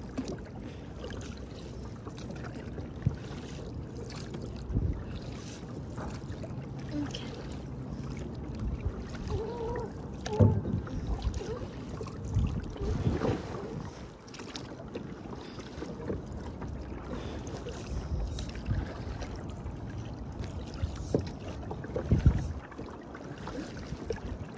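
Kayak paddling: the paddle blades dip and splash at uneven intervals, with water lapping and sloshing against the kayak's hull and a steady rush of wind on the microphone.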